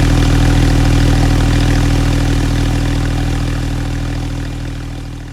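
Porsche 911 (991.2) Carrera S's twin-turbo flat-six idling steadily through its sports exhaust, fading out near the end.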